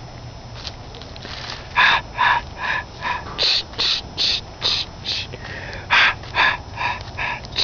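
An animal giving a rapid series of short calls, about two or three a second, in two runs with a brief pause between them.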